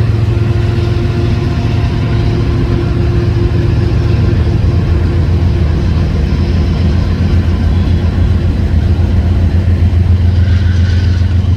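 Diesel freight locomotive running as it passes, a loud, steady, deep engine drone.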